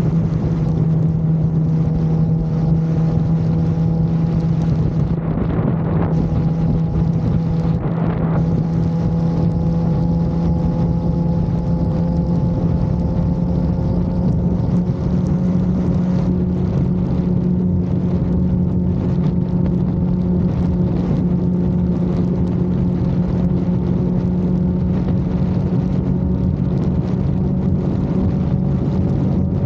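Sport motorcycle engine running steadily at cruising speed, its pitch creeping slowly upward, with wind rushing over the microphone.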